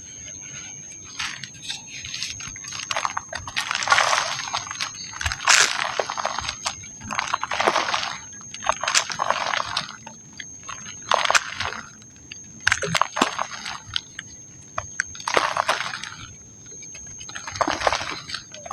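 Dry pink mud crumbling and breaking apart in about ten separate bursts of gritty crackle, with sharp snaps among them. A thin steady high tone runs underneath.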